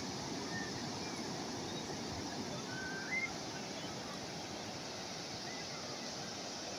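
Calm sea waves washing steadily, with a few faint short whistles in the first half and a brief louder moment about three seconds in.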